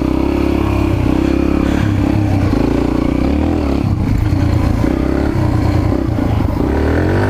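Mini bike engine running hard under throttle, its pitch rising and falling as the back tire spins for grip in soft ground, with a rise in revs near the end.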